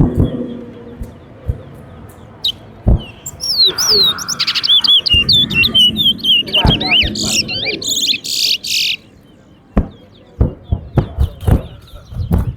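Caged towa-towa (chestnut-bellied seed finch) singing a fast, warbling burst of whistled song for several seconds in the middle, amid a few sharp knocks.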